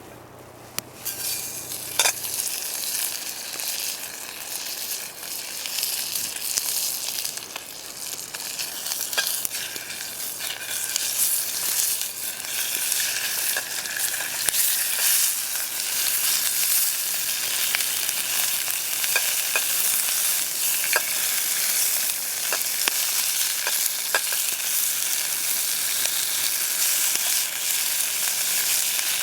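Food frying in hot oil in a pan, a sizzle that starts about a second in and grows louder and denser, with occasional clicks of a utensil stirring.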